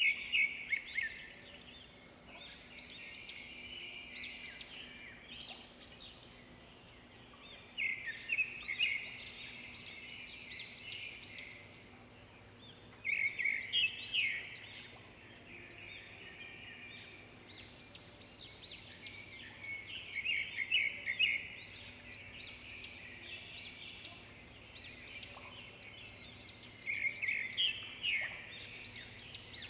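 Birds singing: a louder trilling song phrase comes about every six to seven seconds, with quieter chirping in between.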